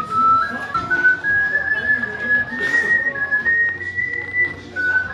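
A person whistling a tune, one clear tone moving in held notes that climb in small steps and drop back down near the end.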